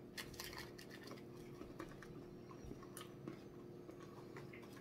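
Faint chewing of fried food (crispy chicken tenders), with scattered small crunches and wet mouth clicks, over a faint steady hum.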